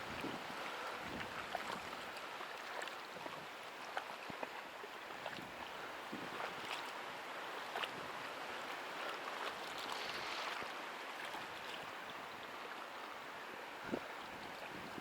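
Steady hiss of wind and lapping water, with scattered faint clicks and knocks.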